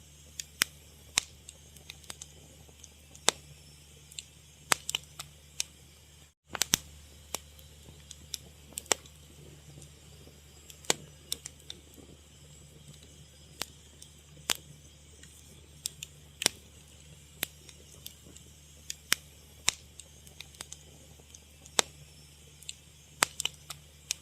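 Wood fire crackling: irregular sharp pops and snaps, sometimes in quick clusters, over a steady low hum and faint hiss, with a momentary drop to silence just over six seconds in.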